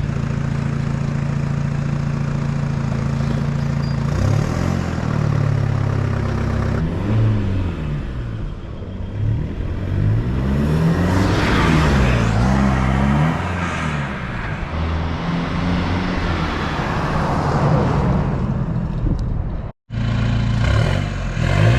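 Turbocharged 4WD engine running through a new 3-inch turbo-back exhaust with no muffler. It idles steadily for about four seconds, then is revved again and again, each rev rising and falling. The sound cuts out briefly near the end.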